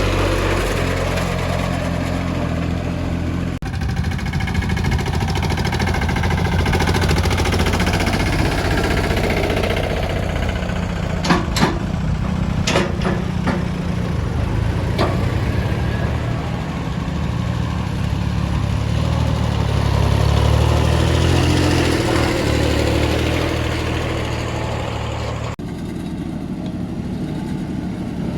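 Small tractor diesel engine running steadily under work. The engine note shifts abruptly about three and a half seconds in and again near the end. There are a few sharp clacks around the middle.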